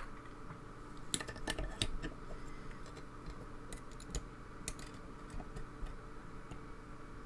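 Small, irregular metallic clicks of a lock pick working the pins of a lock under light tension. There is a run of clicks about a second in and another around four to five seconds in.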